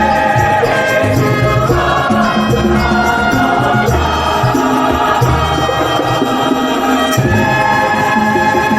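Church music: a choir singing sustained chords over instrumental accompaniment, with the bass line moving to a new note every second or so.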